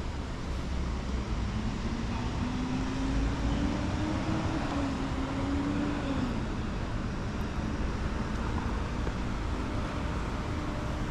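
Street traffic: a steady low rumble and hiss, with one vehicle's engine rising in pitch from about two seconds in and dropping again around six seconds.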